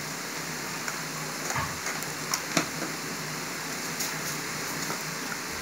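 Vegetable fried rice sizzling steadily in a steel kadhai on a low flame, with a few light clicks near the middle.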